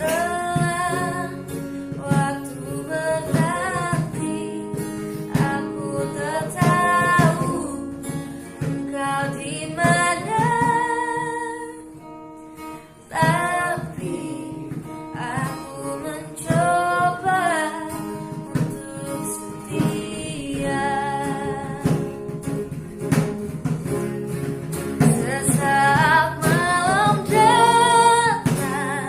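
A woman singing a song with guitar accompaniment, her phrases broken by a short pause about halfway through.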